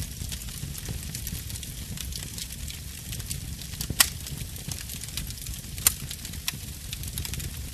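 Birch-wood campfire burning, with a steady low rumble and scattered sharp crackles and pops; the loudest pop comes about four seconds in, another near six seconds.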